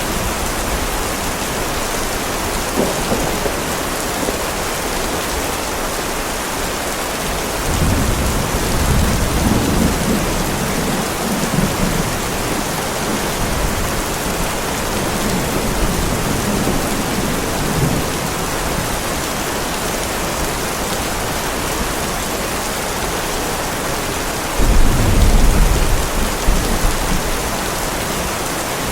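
Heavy steady rain with rolls of thunder: a long low rumble rises about eight seconds in and fades over several seconds, and a louder, sudden clap of thunder rumbles near the end.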